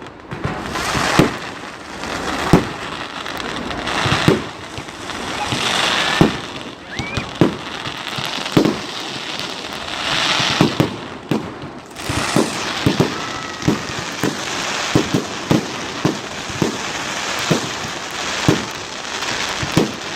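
Fireworks display: a run of sharp shell bursts going off about once a second, coming faster in the second half, with swells of crackling hiss between them and a faint rising whistle.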